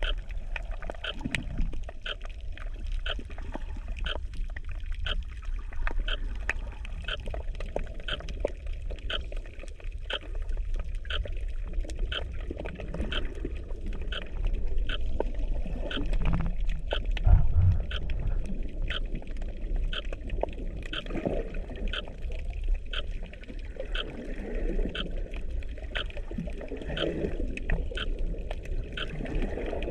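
Underwater sound picked up by a GoPro in its housing: low rumbling water movement with swirling, gurgling noise, over a steady train of short clicks at roughly one to two a second. There is a louder thump about seventeen seconds in.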